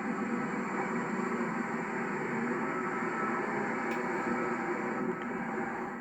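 1991 Chevrolet Caprice Classic's 305 cubic-inch (5-litre) throttle-body-injected V8 idling steadily.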